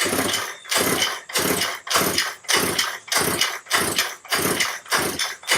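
Chung Yang 29cc two-stroke engine being cranked on its recoil pull-starter with the spark plug out, in quick repeated pulls of about two a second, each a short whirring rasp. The cranking works 3-in-1 oil through the cylinder ahead of break-in.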